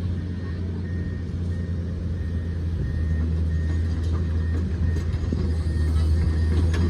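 Excavator's diesel engine running steadily, a low drone that grows a little louder toward the end.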